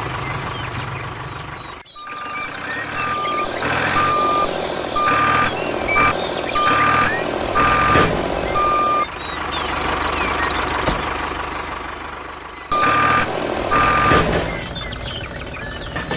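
Vehicle reversing alarm beeping in a regular series, a little under two beeps a second, over a running engine; the beeps pause for a few seconds and start again near the end.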